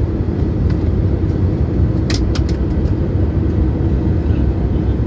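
Cabin noise inside an Airbus A320neo: a steady, loud, low rumble of the engines and airflow. A quick run of four or five sharp clicks comes about two seconds in.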